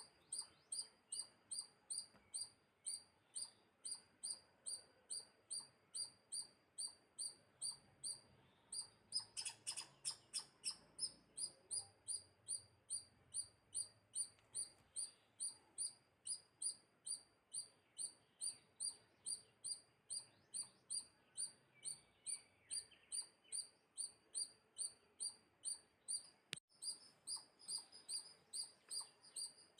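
A bird chirping: short, high chirps repeated steadily about twice a second, with a louder, quicker flurry about a third of the way in.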